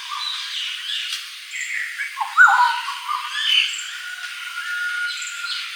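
Several birds chirping and calling over one another, in short sweeping notes. The loudest call comes a little over two seconds in, and one long steady whistled note runs through the latter half.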